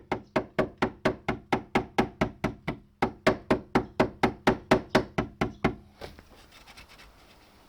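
Ball peen hammer striking the torn, bent sheet metal of a car's tailgate panel to flatten it, about four blows a second with a brief pause halfway. The hammering stops about six seconds in.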